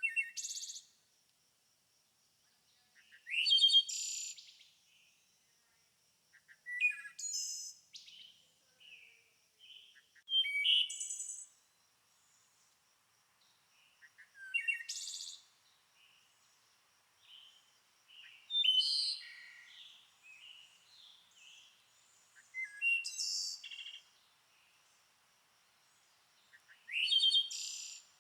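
A songbird singing short, rich phrases of rapid notes, about one phrase every four seconds, with softer chirps in between.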